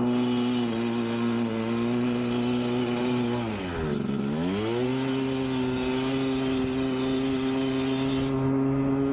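1999 Kawasaki KX250's single-cylinder two-stroke engine running at steady high revs, its pitch dropping about four seconds in and climbing straight back. A hiss runs alongside and stops shortly before the end.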